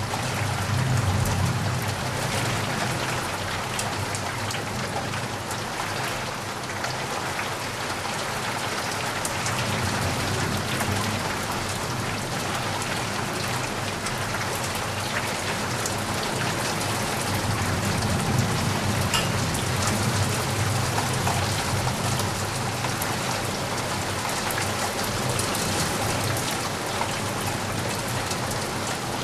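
Steady rain falling, a dense patter of drops hitting a surface, with a low rumble underneath that swells three times and fades again.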